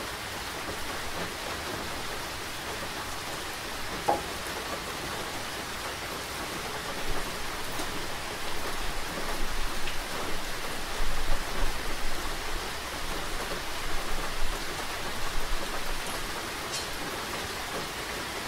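Steady rain falling, an even hiss with a single sharper drop about four seconds in. Through the middle it turns louder and more uneven, with a low rumble underneath.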